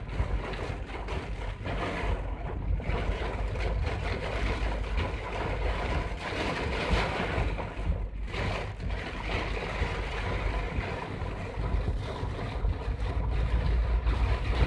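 Torrential cloudburst rain drumming on a car's roof and windshield, heard from inside the cabin over the low rumble of the car driving.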